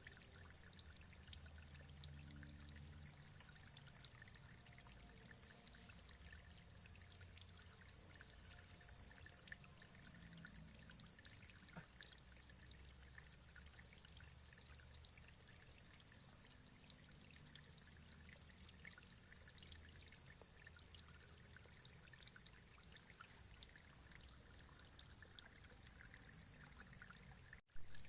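Faint, steady running water, a continuous flow with small splashy ticks. Near the end the sound drops out for an instant and comes back with a short click.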